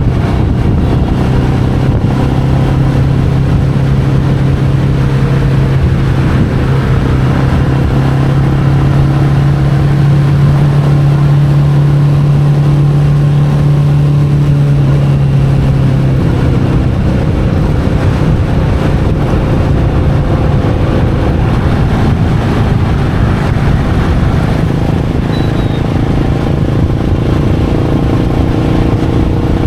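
Royal Enfield Meteor 350's single-cylinder engine running as the bike is ridden, over a steady rumble of road noise. A strong, even engine note holds from about a second in until about halfway, then fades back into the rumble.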